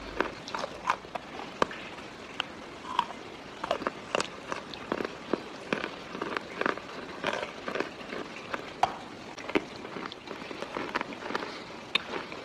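Close-up crunching of chalk being bitten and chewed: an irregular run of crisp cracks and clicks, several a second.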